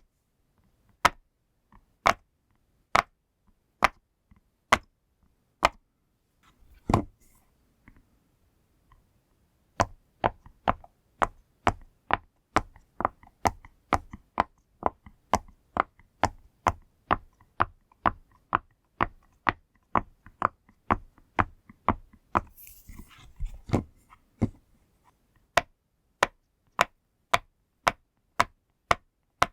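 Silicone push-pop fidget toy, its bubbles pressed one at a time, each giving a short sharp pop. The pops come about once a second at first; after a pause with a soft rustle of handling, they come quicker, about two a second, with another brief rustle of handling partway through.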